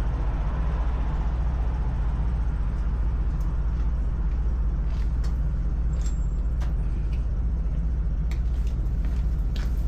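Steady low engine rumble, with scattered light clicks and clinks in the second half.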